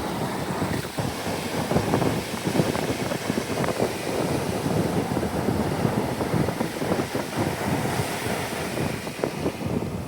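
Wind buffeting the microphone over small ocean waves breaking on the beach, a steady, rough rush of noise.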